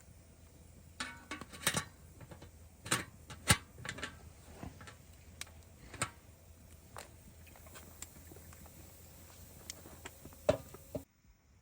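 Scattered sharp clicks and knocks at irregular intervals over a low steady hum, cutting off abruptly near the end.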